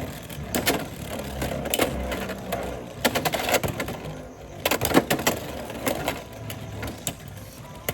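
Beyblade X spinning tops battling in a plastic stadium, with a steady rattle and sharp clacks of collisions scattered throughout.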